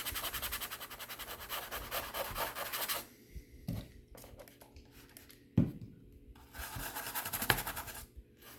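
Rapid back-and-forth scrubbing on a laptop's casing, working at sticky residue with isopropyl alcohol. The scrubbing stops after about three seconds. A few knocks follow, a sharp one about halfway. Scrubbing starts again briefly near the end.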